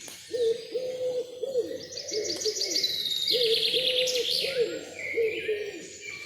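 Forest birdsong: one bird gives a run of short low hooting notes again and again, while higher songbirds chirp over it and one sings a rapid trill in the middle.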